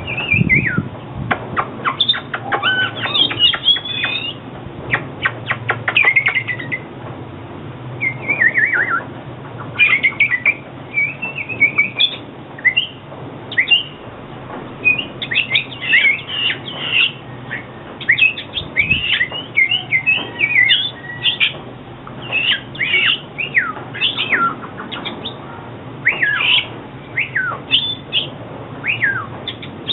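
Oriental magpie-robin singing: a continuous string of varied, quick whistled phrases with slurred rising and falling notes and a few harsh chattering notes, broken by brief pauses.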